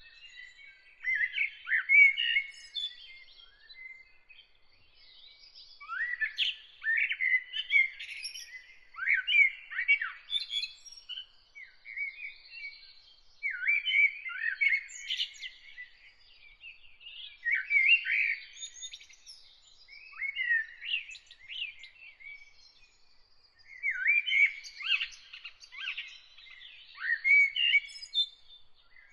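Songbird singing in short phrases of varied, gliding notes, one phrase every few seconds with brief pauses between.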